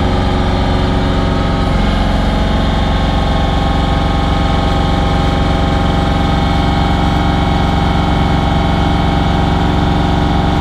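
Bobcat CT5555 compact tractor's diesel engine running steadily. Its pitch steps up a couple of seconds in as the throttle goes to full RPM, while the loader lifts a heavy bucket during a test of its weak hydraulic lift.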